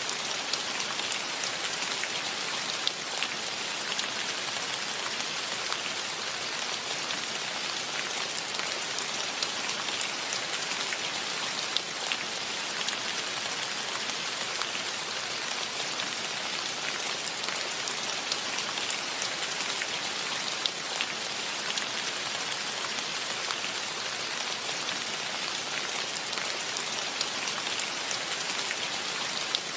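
Steady rain falling, an even hiss sprinkled with scattered louder individual drop hits.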